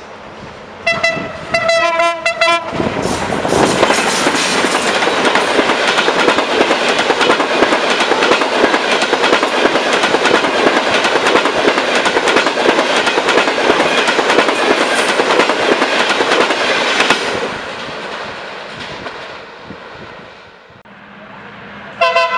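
A diesel locomotive's horn sounds two blasts, the second longer, as a passenger train approaches. The locomotive and coaches then pass close at speed, with loud rapid wheel clatter over the rail joints that fades as the train goes by. Another horn blast starts right at the end.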